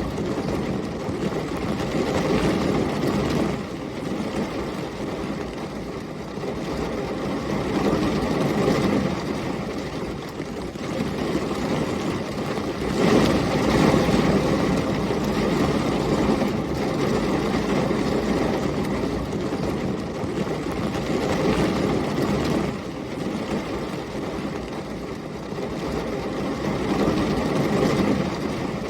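Heavy rain with gusting storm wind: a steady, deep rushing noise that swells and eases every few seconds, loudest about halfway through.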